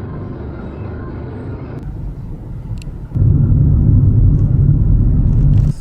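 Car on the road: a steady low rumble of driving noise that gets much louder and heavier about three seconds in, then cuts off suddenly near the end.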